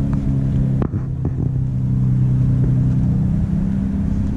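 Car engine idling steadily, with a short knock or click about a second in.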